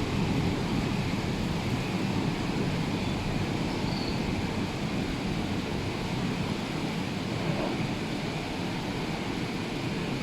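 Rough sea surf and wind, a steady rushing noise that is heaviest in the low end.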